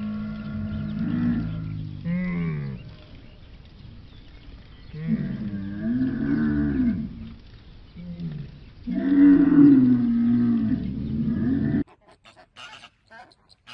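Dromedary camels calling: several long, low, wavering calls, with a short one between the last two. The last call is the loudest and cuts off suddenly near the end.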